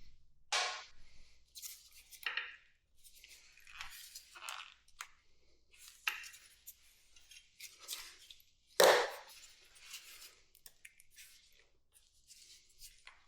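Irregular clicks, scrapes and rustles of hand tools and parts being handled while a motorcycle is taken apart, with one louder clatter about two-thirds of the way through.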